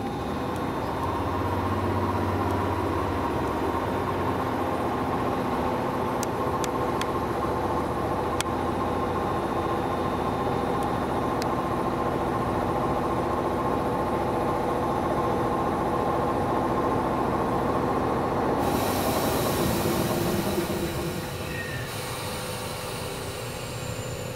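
Kobe Electric Railway electric train running, a steady mechanical sound with several held tones that eases off about twenty seconds in. A high hiss sets in shortly before it eases.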